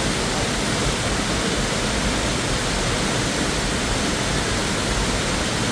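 Noccalula Falls, a 90-foot waterfall, rushing in a loud, steady, unbroken noise.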